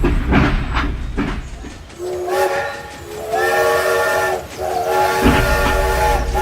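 Several blasts of a multi-tone train horn, each about a second long, in the second half, over a low rumble that drops out in the middle.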